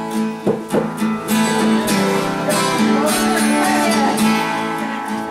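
Guitar strumming chords, each stroke followed by the ringing of the strings.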